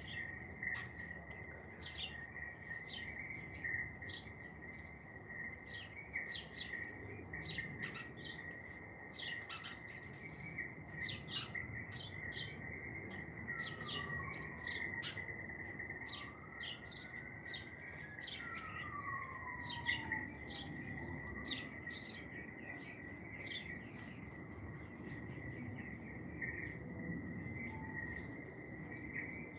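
Garden birdsong: many short, quick chirps from several small birds, with a few long sliding whistles, falling then rising, about halfway through. A steady high continuous tone runs under it.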